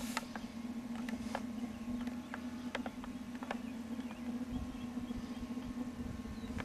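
ParkZone T-28 RC plane's electric motor and propeller giving a steady hum while flying, with scattered sharp ticks. Low wind rumble on the microphone comes in about two-thirds of the way through.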